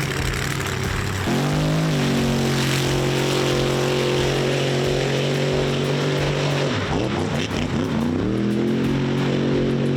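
Mega truck's engine revving up about a second in and held at high, steady revs while racing through mud, backing off about seven seconds in and then revving up and holding again.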